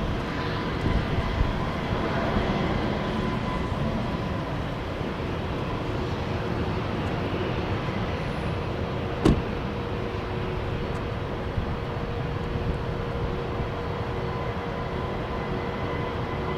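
Boeing 787-8 airliner coming in to land, its jet engines giving a steady rush with faint steady whine tones, over uneven low buffeting from strong gusty wind on the microphone. A single sharp click about nine seconds in.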